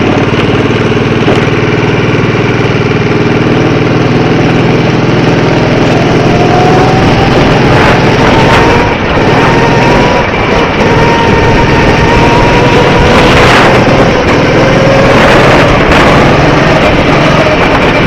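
Small go-kart engine running steadily at low revs, then pulling away about six seconds in, its pitch rising over a few seconds and holding high as the kart drives on, over a constant rushing noise.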